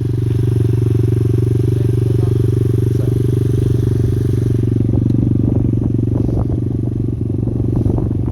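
Pit bike engine running steadily under way, a dense low pulsing drone. From about halfway through, short clattering knocks come in over it.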